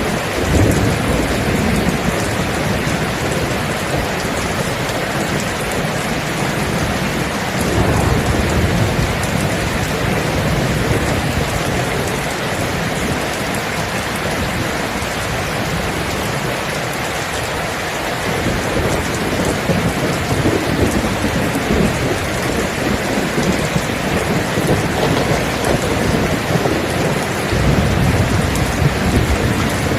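Steady heavy rain, with rolls of thunder rumbling low through it several times.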